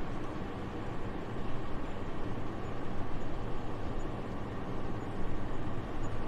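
Soft, steady winter wind: an even airy hiss over a low rumble, gently swelling and easing in strength.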